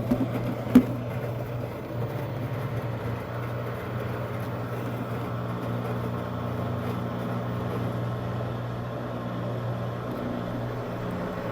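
Steady motor hum of a front-loading washing machine spinning its drum, with one sharp click about a second in.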